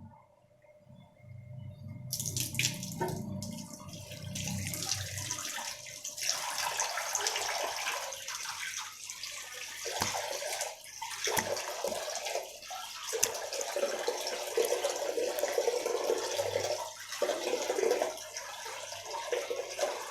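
A tap is turned on about two seconds in, and water runs into a bathroom sink with uneven splashing.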